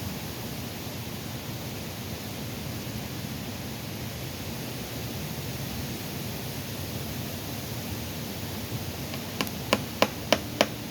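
Steady wind and rustling noise, then near the end about five sharp knocks in quick succession, about three a second: hammer blows while mounting a wooden birdhouse on a tree.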